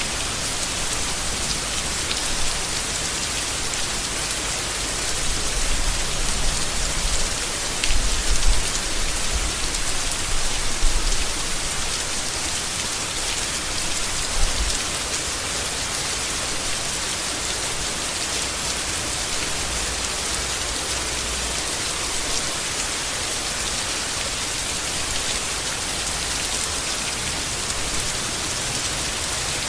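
Steady heavy rain falling on leaves, an even hiss. Low rumbles rise briefly from about six to eleven seconds in and again around fourteen seconds.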